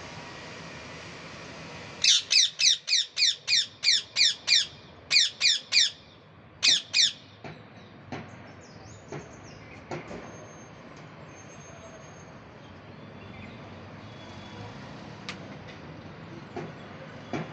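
A pet parrot calling in a fast run of about ten sharp, repeated squawks, roughly four a second, followed by a group of three and then a pair of squawks. After these only faint clicks and background noise remain.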